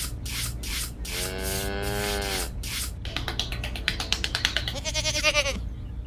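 A cow moos once, a call of about a second and a half, followed near the end by a short quavering bleat. Short scraping strokes, like a small trowel drawn over sand, come before and between the calls.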